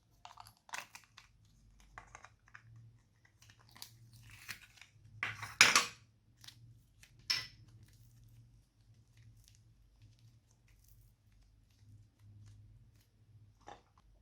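Slime being squeezed and mixed by hand, giving irregular crackling and crunching sounds, loudest in a burst a little before the middle and another soon after.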